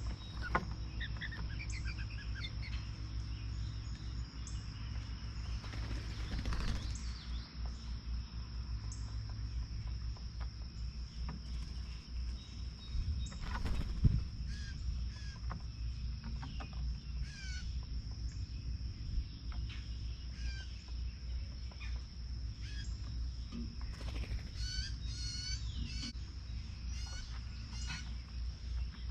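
Small songbirds at a feeder chirping and calling on and off, with a quick run of repeated chirps near the end. A few sudden flutters or knocks stand out about 7 and 14 seconds in. A steady low hum and a steady thin high tone run underneath.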